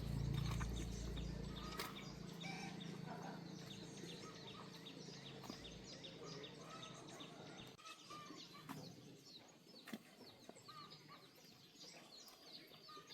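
Faint birds chirping in the background, with a low hum that dies away in the first two seconds.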